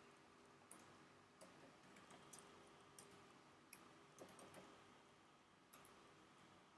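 Faint computer keyboard keystrokes: about ten scattered, irregular clicks as text is typed.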